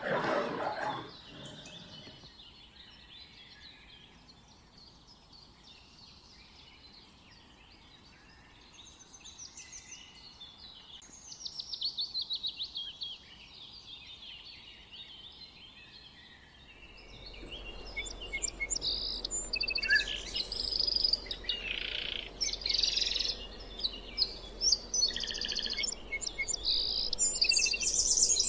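Birds chirping and calling, faint and sparse at first. From about halfway through the calls become a louder, busier chorus of short high notes over a low steady hum. A loud rushing noise cuts off about a second in.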